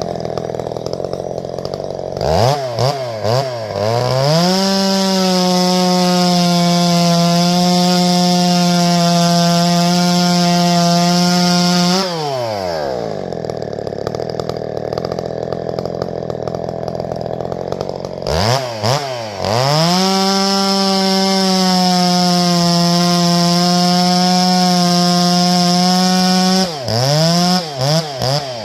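Two-stroke chainsaw idling, then blipped a few times and held at full throttle for about eight seconds before dropping back to idle. The same happens a second time, ending with a few quick revs back down to idle near the end.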